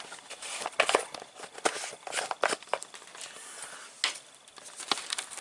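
Hands handling a container and packaging of washing machine cleaner: an irregular string of clicks, taps and crinkling rustles.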